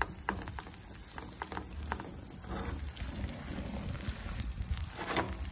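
Oil sizzling in a frying pan as patties of mashed potato and ham fry, with a few soft taps as the patties are pressed into place.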